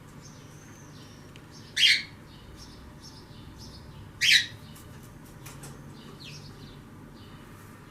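Birds chirping softly, with two loud, short, high calls about two and a half seconds apart.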